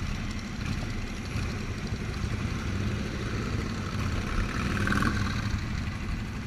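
Motorcycle engine idling at low revs, a steady low pulse.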